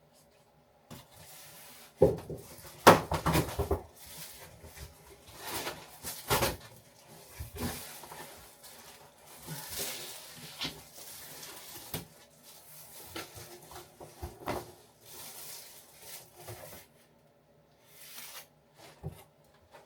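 A new fridge freezer's packaging being pulled, torn and knocked about by hand: irregular scrapes, rustles and thumps, loudest about two to three and a half seconds in.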